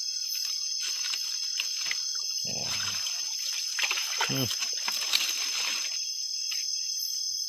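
Steady night chorus of crickets and insects, with water splashing in the middle and two short low grunting sounds.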